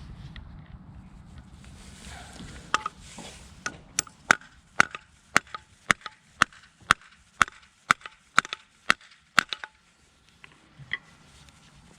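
A hammer striking metal in a steady series of about fifteen sharp blows, roughly two a second, each with a short metallic ring, then a few lighter taps near the end.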